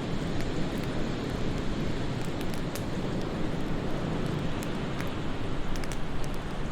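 Fireplace crackling with scattered small pops, over a steady low rush of wind.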